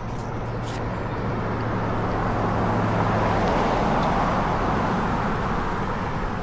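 A road vehicle passing, its noise swelling to a peak about halfway through and then easing, over a steady low hum.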